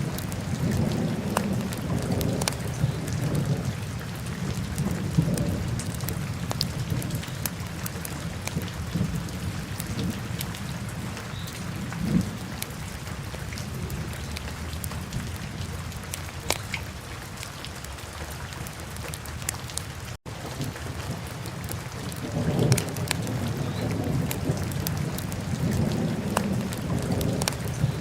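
Fireplace fire crackling with scattered sharp pops over a steady hiss and a low rumble, which swells near the start and again in the last few seconds. The sound drops out for a moment about twenty seconds in.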